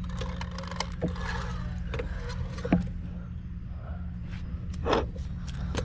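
A vehicle engine running steadily with a low hum, with scattered light clicks and knocks over it; a sharper knock about three seconds in and another near the end.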